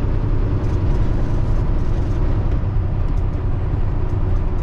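Semi-truck cab interior while driving: a steady, low engine and road rumble.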